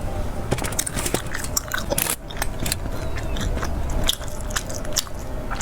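Close-miked eating: biting and chewing fried skewer food, with many short wet clicks and crunches.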